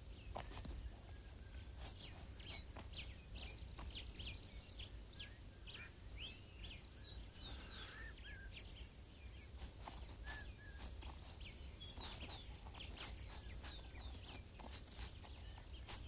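Faint, irregular chorus of small birds chirping: many short high chirps and whistles scattered throughout, over a low steady hum.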